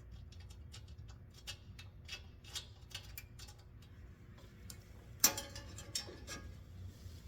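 Hand ratchet clicking in short, irregular runs of ticks as nuts are backed off. One sharp, ringing metal clank about five seconds in.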